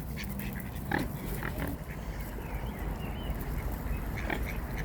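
Ducks giving a few short, low quacks and grunts, scattered irregularly, over a steady low background rumble.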